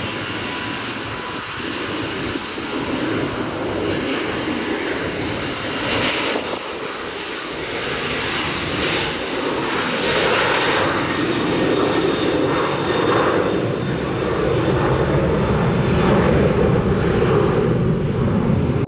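Jet noise from a Boeing 737-300's CFM56 turbofan engines, a steady loud roar that grows louder toward the end and cuts off suddenly.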